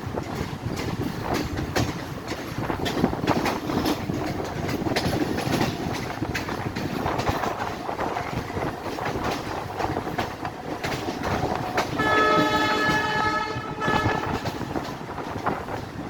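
Mumbai local electric train running, its wheels clattering over the rail joints, with a train horn blowing for about two seconds near the end.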